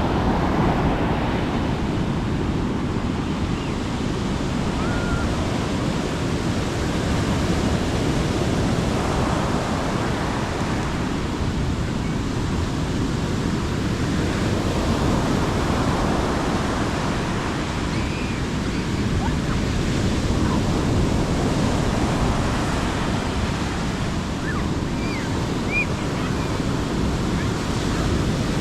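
Sea waves breaking and washing up on the beach, a steady surf noise that swells every few seconds, with wind on the microphone.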